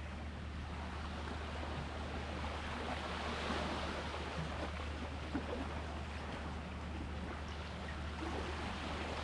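Sea waves washing on the shore, swelling about three seconds in and again near the end, over a steady low hum.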